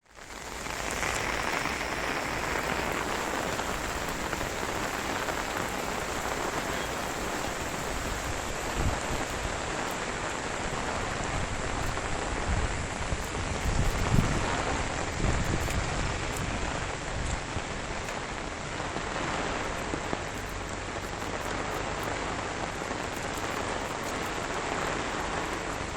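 Steady rain falling, an even hiss throughout, with a few low rumbles about halfway through.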